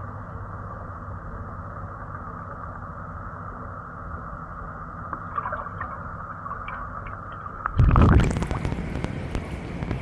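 Muffled underwater sound of a swimming pool, a steady low rumble with no highs. About eight seconds in, a sudden loud burst of water noise as the microphone comes up out of the water.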